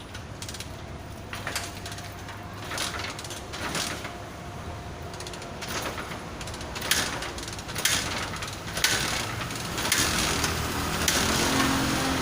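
Irregular clicks, knocks and scrapes of hand tools and metal parts being handled during engine assembly work, coming more often in the second half.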